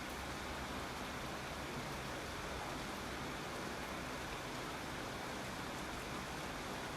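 Steady rain falling: an even, unbroken hiss of rain with no single drops or thunder standing out.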